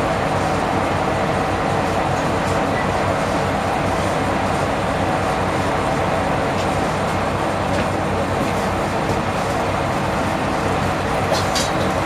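Diesel railcar's engine running steadily, heard from inside the passenger cabin, with a couple of faint clicks near the end.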